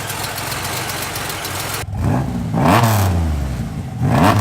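Freshly built GM 3800 stroker V6 in a Pontiac Grand Prix running on its first start-up: steady running at first, then after a sudden break about two seconds in it is revved twice, each rev climbing quickly in pitch and dropping back.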